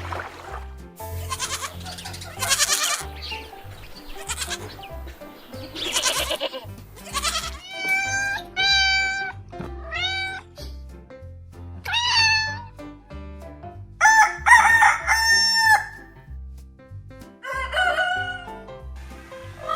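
Farm animal calls, a series of loud, high, bending cries each lasting about a second, over background music with a steady bass line.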